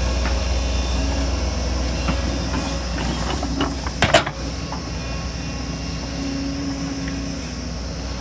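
Excavator's diesel engine running steadily, with a cluster of metallic clanks and scrapes in the middle, the loudest a sharp bang about four seconds in.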